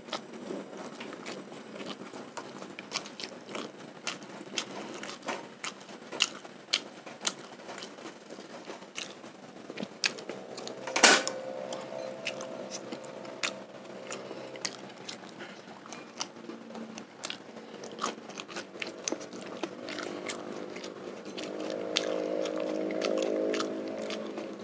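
Close-miked chewing of grilled sate kere, soft grilled chunks of tahu gembos (tofu dregs), with wet mouth clicks and smacks throughout. One sharper click comes about halfway through.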